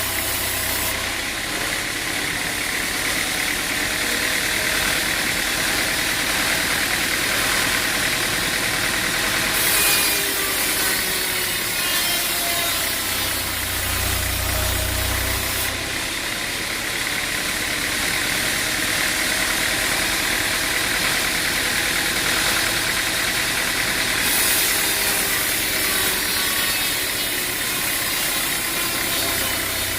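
A machine engine running steadily with a constant drone, its pitch wavering slightly now and then.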